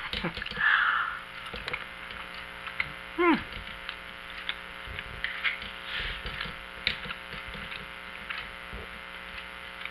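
A person chewing a bite of firm homemade seitan: quiet, scattered mouth clicks and soft crunching, with a short falling "mm" about three seconds in.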